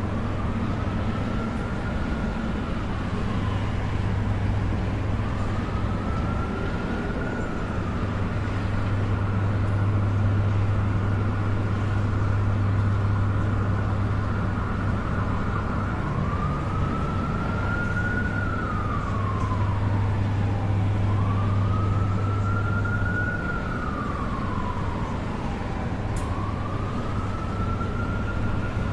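Emergency-vehicle siren wailing slowly up and down in repeated cycles, held level for a stretch in the middle, over the steady low rumble of city traffic.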